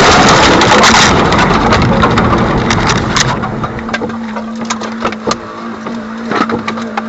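A vehicle collision picked up by a dash cam's microphone: a sudden, very loud burst of noise right at the start, easing off over the next few seconds into scattered clicks and clatter, with a steady low tone in the second half.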